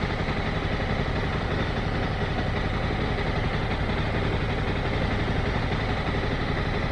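Motorcycle engine running steadily without revving, a low even drone.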